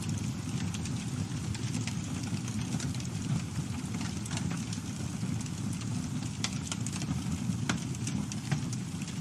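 Campfire burning: a steady low rumble of flames under frequent sharp crackles and pops of burning wood, a few louder pops in the second half.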